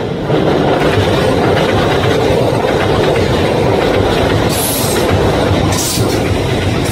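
A train running on its rails, loud and steady, its wheels clattering over the track joints. A few short, high hissing bursts come in the second half.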